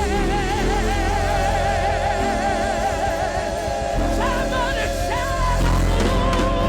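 Gospel praise-and-worship music: long notes held with vibrato over a band with a steady bass.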